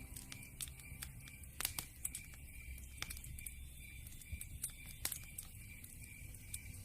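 Wood fire crackling in a fireplace: irregular sharp pops over a low rumble, with two louder pops, one about a second and a half in and one about five seconds in.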